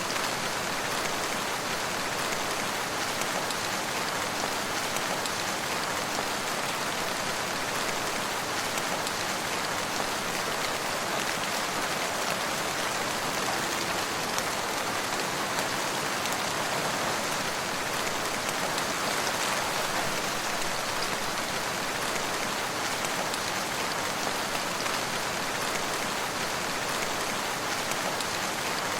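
Steady rain falling on surfaces, an even hiss of many drops with no lulls or gusts.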